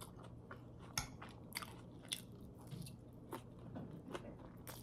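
Close-up chewing of a mouthful of pad thai noodles: quiet, with scattered short wet clicks and smacks every half second or so, the sharpest about a second in.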